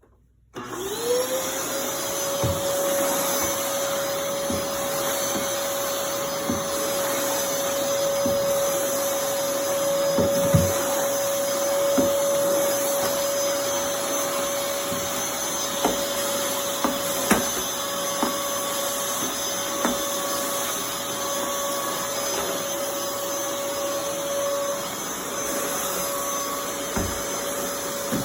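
Dyson DC23 Animal canister vacuum switching on about half a second in, its motor winding up in pitch to a steady running tone, then vacuuming with occasional short knocks from the cleaner head.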